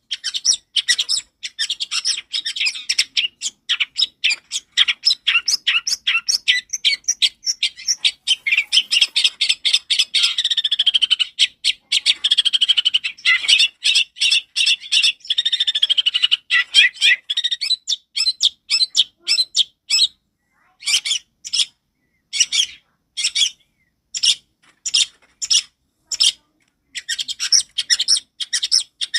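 Long-tailed shrike (cendet) singing a loud, clear, fast chattering song of rapid high notes. It runs into a more continuous warble about ten seconds in, breaks into short separate phrases for a while, and turns dense and rapid again near the end.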